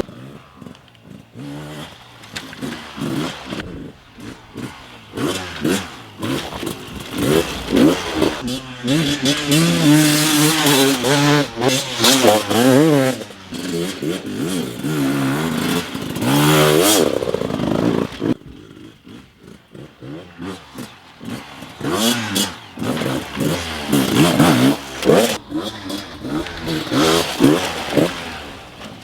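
2017 Gas Gas 300 two-stroke dirt bike ridden hard, its engine revving up and down through the FMF slip-on exhaust as the throttle opens and closes. It is loudest and most sustained in the middle, and quieter near the start and again about two-thirds of the way through.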